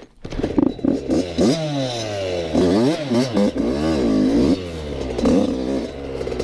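Yamaha YZ85 two-stroke dirt bike engine revving up and down repeatedly as the bike labours through soft sand. The engine picks up about half a second in, after a quieter moment.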